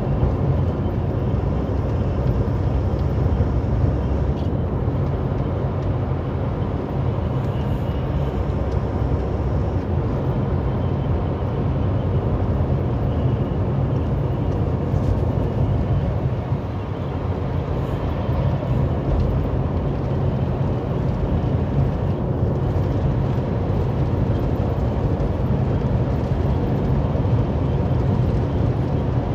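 Heavily loaded semi truck's diesel engine and tyre noise heard from inside the cab, running steadily at highway speed: a continuous low rumble.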